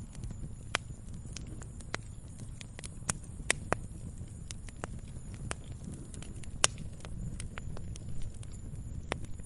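Wood log fire burning: irregular sharp crackles and pops, the loudest about three and a half and six and a half seconds in, over a steady low rumble of flames.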